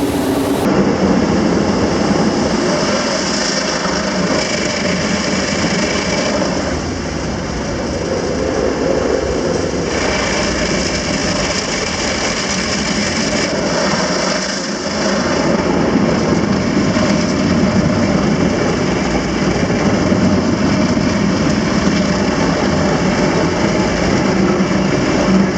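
Istobal M18 rollover car wash working over a car: a loud, steady rush of spraying water and machinery noise.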